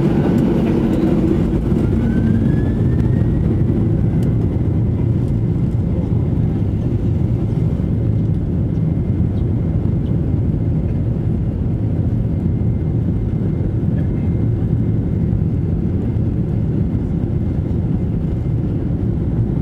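Boeing 737-800's CFM56-7B jet engines heard from inside the passenger cabin: a loud, steady rumble. A thin whine rises about two seconds in and then holds at one pitch.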